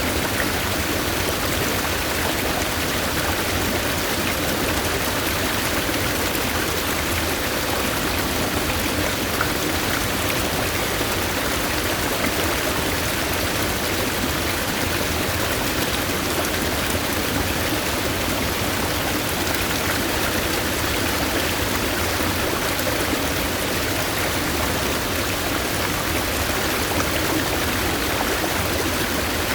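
A stream flowing: a steady, even rush of running water with no breaks or changes.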